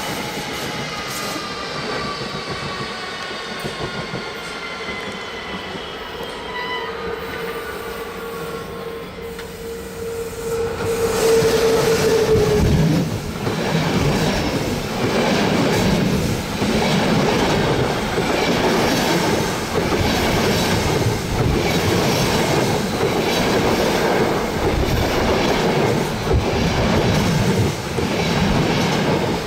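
Train running on the Semmering railway. For the first dozen seconds there is a steady squeal and a whine that slowly falls in pitch. From about eleven seconds in, louder rolling noise takes over, with a steady clickety-clack of wheels over the rail joints.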